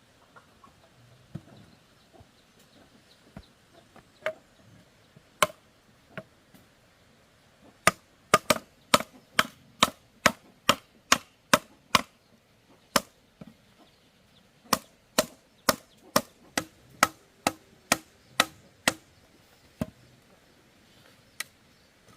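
Bamboo being chopped with a blade. It starts with a few spaced blows, then comes a quick run of about a dozen sharp strikes, two to three a second, a short pause, and a second run of about a dozen more.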